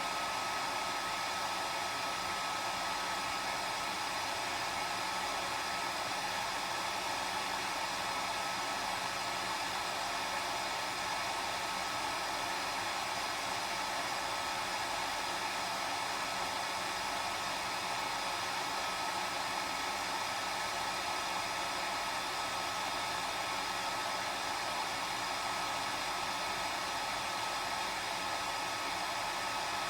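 Hair dryer running steadily: a constant blowing rush with a steady whine, unchanging throughout.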